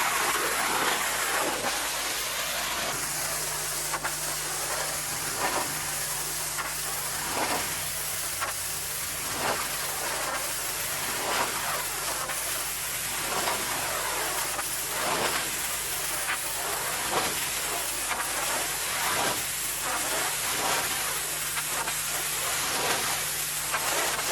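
Pressure washer spraying water in repeated sweeps: a steady hiss that swells about every one to two seconds, over a low steady hum.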